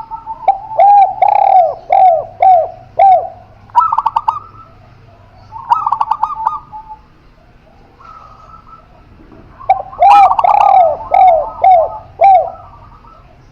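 Spotted dove and zebra dove calling together. Runs of about five quick falling coos are mixed with short rapid trills. They come in two bouts: one in the first seven seconds, and another starting about ten seconds in.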